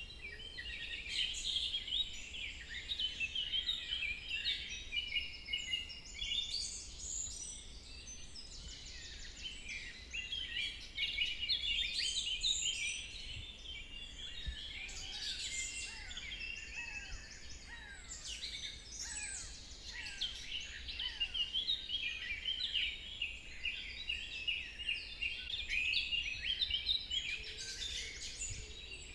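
Forest dawn chorus: many songbirds chirping and trilling at once in a dense, overlapping chorus, with a few falling whistled notes midway through.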